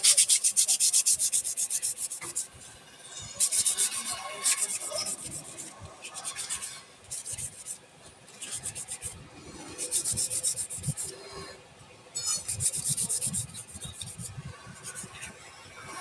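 Wood turning on a lathe, worked in repeated short passes that give a rubbing, scraping sound in bursts of about a second with short gaps between them.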